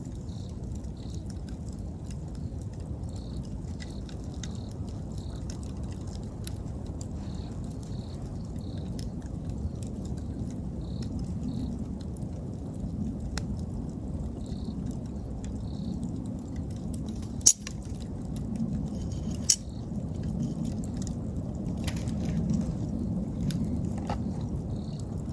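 Wood fire burning with a low rumble and scattered crackles, with two sharp pops a couple of seconds apart past the middle. Autumn insects chirp in short high pulses throughout.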